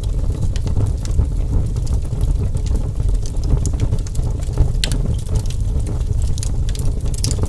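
Wood fire crackling, with scattered sharp pops and snaps over a steady low rumble; a louder pop comes about two-thirds of the way in and another near the end.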